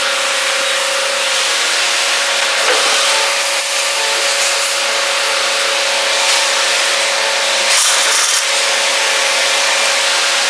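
Forrest Model 236 bandsaw running its 5/8 inch scallop-edge blade at 3000 feet per minute: a steady hiss with a constant hum-like tone under it.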